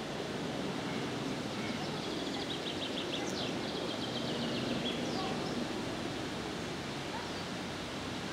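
A songbird singing over a steady rushing background noise: a fast run of short high notes about two seconds in, then a few scattered chirps.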